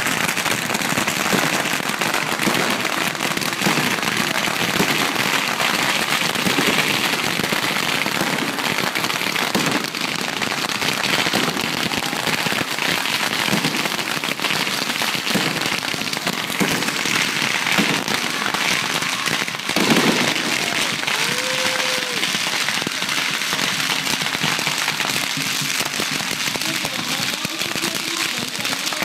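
Long strings of firecrackers going off in a dense, continuous rapid crackle of countless small bangs, steady in loudness throughout.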